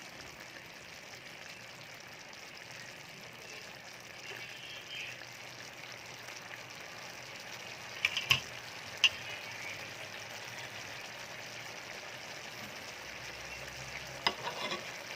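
Creamy milk-based chicken stew simmering and bubbling steadily in the pan while it boils down to thicken. A few sharp clicks come about halfway through and again near the end.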